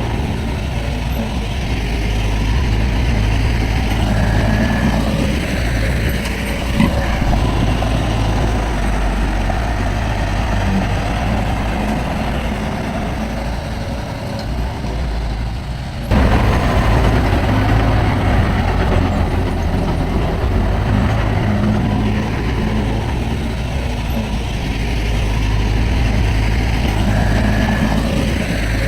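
Diesel engines of heavy earthmoving machinery, bulldozer and dump trucks, running steadily, with a few short sharp clanks. The sound level steps up abruptly about halfway through.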